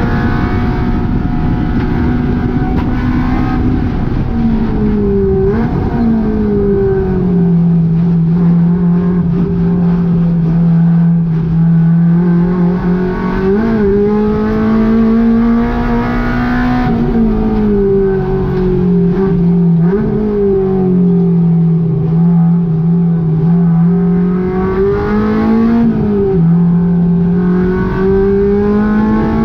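Honda K20 four-cylinder engine in a Volkswagen GTI running hard at high revs, its pitch climbing and falling as it pulls and lifts, with a few brief sharp rev blips along the way.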